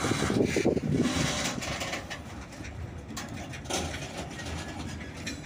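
Covered freight wagons rolling slowly past, their steel wheels rumbling on the rails with scattered clicks over the rail joints. Louder for about the first second, then quieter.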